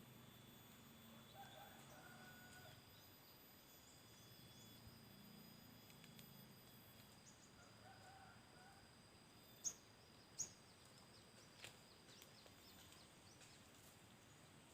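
Near-quiet outdoor background with faint, short bird calls, plus two sharp high chip notes close together about ten seconds in and a weaker one soon after.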